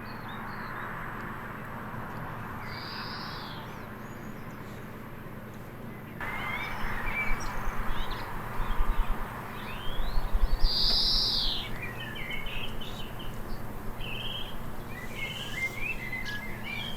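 Garden birds calling and singing: many short chirps and twitters, with two longer, higher notes. The calling gets louder and busier about six seconds in.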